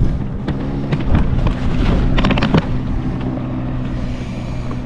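A boat's motor running steadily with a low hum, while a quick series of sharp knocks and rattles comes about two seconds in.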